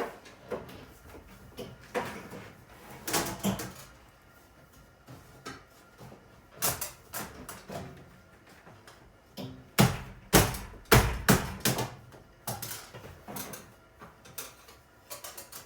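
Hand work on refrigerator parts: a string of irregular clicks and knocks, with a cluster of louder thumps about ten seconds in.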